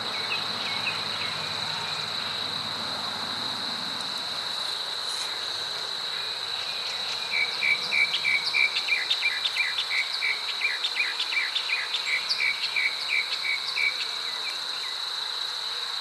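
Outdoor insects trilling in a steady high drone. About halfway through comes a run of rapid, evenly spaced chirps, about four a second, for some six seconds.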